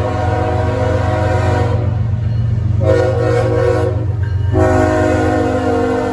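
CSX diesel locomotive's air horn sounding a chord in blasts, with short breaks about two and four seconds in, over the steady low rumble of the locomotive's engine.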